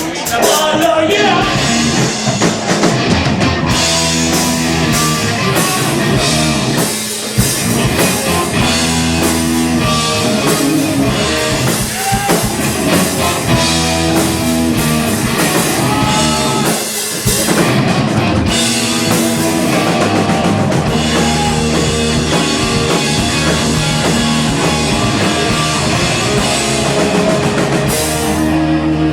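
Live rock band playing an instrumental stretch with electric guitars, bass and drum kit, with brief breaks about a third and about halfway through before the band comes back in.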